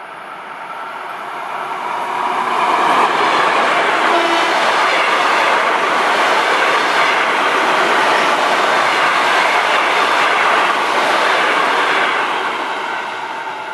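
A train passing close by: the noise of its wheels on the rails builds over the first few seconds, holds steady and loud for about nine seconds, then fades near the end.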